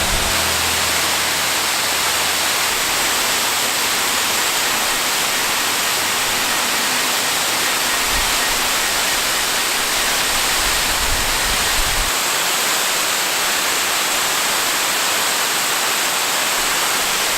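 Waterfall rushing as a steady, even hiss, with low rumbles near the start and again from about eight to twelve seconds in.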